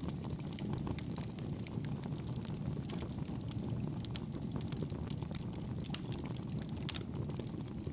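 Wood fire crackling in a fireplace: a steady low rumble of flames under frequent small, sharp crackles and pops.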